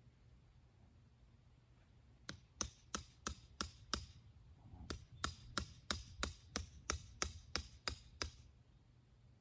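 A tool striking hard and sharply in a quick, even rhythm of about three blows a second, in two runs: six strikes, a short pause, then about a dozen more.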